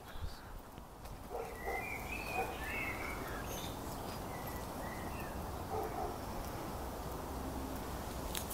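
Birds chirping and warbling in short phrases, a few seconds in and again midway, over a steady low outdoor background rumble.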